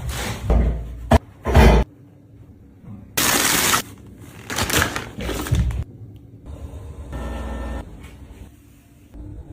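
Household cleaning sounds: objects knocked and handled, a short hiss, scrubbing, and a brief steady hum.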